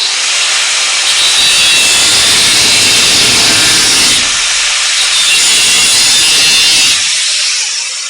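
Power tool cutting through car body sheet metal, trimming off old rusted panel: a loud, steady cutting noise with a high whine that eases off near the end and stops.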